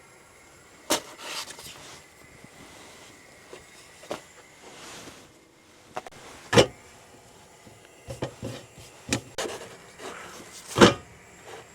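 A series of sharp knocks and clatters a second or more apart, the loudest two near the middle and near the end, over a faint steady hiss.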